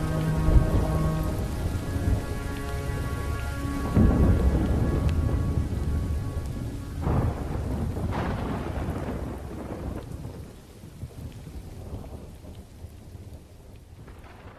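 Thunderstorm: steady rain with several deep rolls of thunder, one just after the start, a big one about four seconds in and two more around seven and eight seconds. The last held notes of slowed, reverb-drenched music fade out in the first few seconds, and the storm fades down toward the end.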